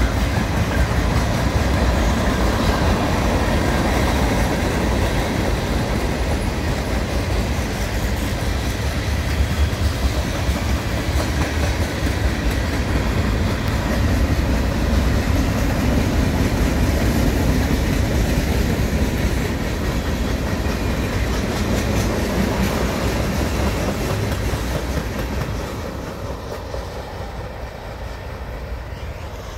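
Freight cars of a long mixed freight train rolling past, steel wheels on the rails making a steady rumble that fades near the end as the cars move away.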